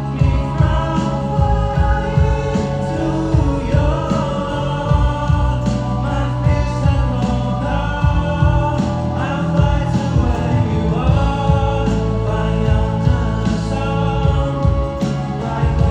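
Live band playing a song, with singing over drums and bass.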